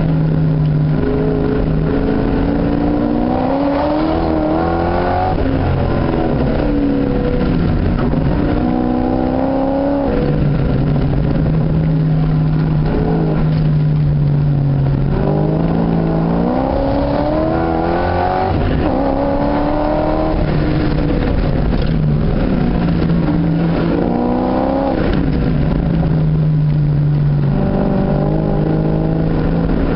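Car engine heard from inside the cabin during a hard lap: it climbs in pitch under acceleration and drops back again over and over, with stretches of steady lower running in between.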